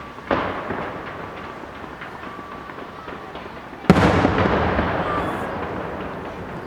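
Aerial firework shells bursting: a softer boom just after the start, then a loud sharp bang about four seconds in, each trailing off in a long rumbling echo.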